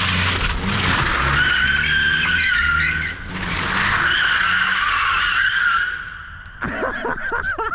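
A drift car sliding: engine running at high revs while the tyres squeal for several seconds at a fairly steady pitch. The squeal and engine fade about six seconds in, and a short burst of a different sound follows near the end.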